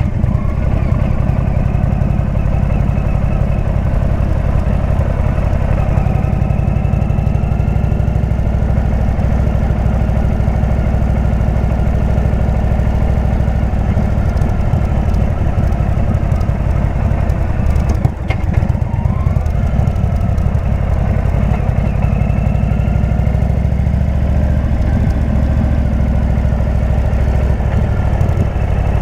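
Indian V-twin motorcycle engine with a Jekill & Hyde exhaust running steadily, its pitch slowly rising and falling with speed. The sound briefly dips about eighteen seconds in.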